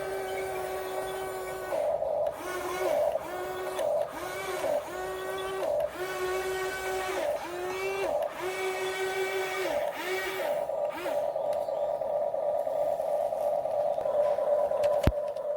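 Small electric motors of radio-controlled construction models whining in short start-stop runs, each gliding up in pitch as it spins up. Later a steadier motor hum runs on, and a single sharp click comes near the end.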